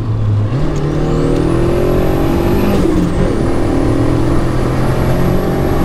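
Mercedes 190's turbocharged 2.3-litre M111 four-cylinder accelerating hard, heard from inside the cabin, with the high whistle of its large Holset turbo rising alongside the engine note. Both dip at a gear change about three seconds in, then climb again.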